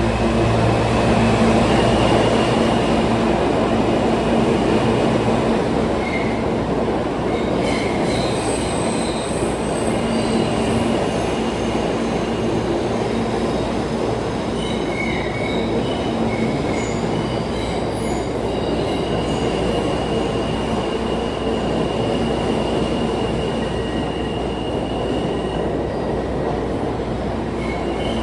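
R160 subway train departing a station: a loud, steady rumble of the cars rolling past, with short wheel squeals coming and going.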